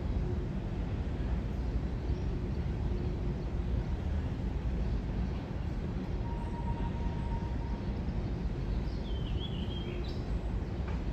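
Steady low outdoor rumble with a faint hum running throughout, and a short bird chirp about nine seconds in.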